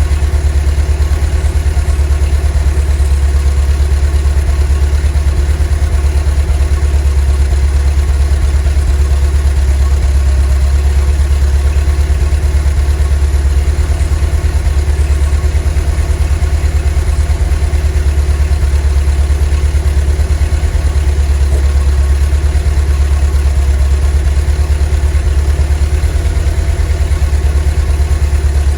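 Volkswagen T3 bus's 2.1-litre water-cooled flat-four (Wasserboxer) engine running steadily at constant revs: a deep, even drone with no change in pitch.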